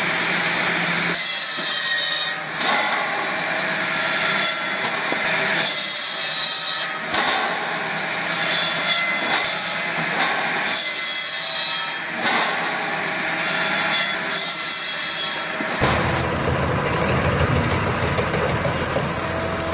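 Saw blades of a log-cutting machine cutting through logs in a run of repeated cuts, each cut lasting about a second with short gaps between. Near the end it gives way to a steady low engine rumble.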